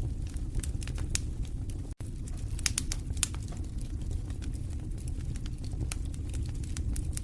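Wood fire burning in a fireplace: irregular sharp crackles and pops over a steady low rumble of the flames, with a momentary dropout about two seconds in.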